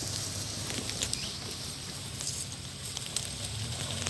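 A vehicle engine idling low and steady, with scattered light crackles and clicks over it.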